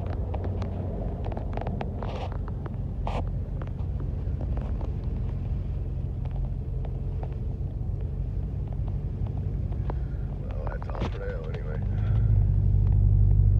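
Steady low rumble of a car's engine and tyres heard from inside the cabin while driving on a snowy highway, with a few light clicks; the rumble grows louder about twelve seconds in.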